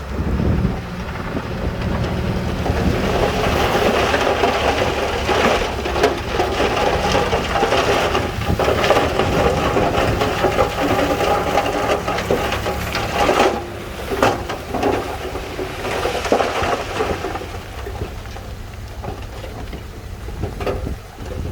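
A load of stone sliding and pouring out of a tipping dump truck's bed: a long, loud rattling rush of rocks with many small knocks over a diesel engine running underneath. It builds about two seconds in and dies down near the end.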